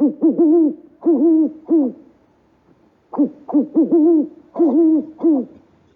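An owl hooting: two runs of short hoots, each note rising and falling, with a pause of about a second between the runs.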